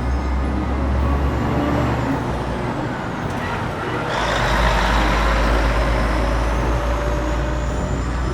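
Truck engine running with a steady low rumble, then a loud hiss starting sharply about four seconds in.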